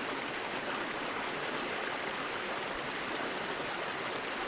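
Steady rush of a rainforest creek running high in flood conditions.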